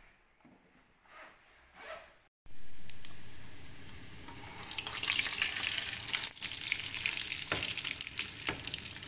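Food frying in hot oil in a pan: a steady crackling sizzle that starts suddenly about two and a half seconds in, after a nearly quiet stretch, and grows louder about halfway through. A couple of soft knocks near the end.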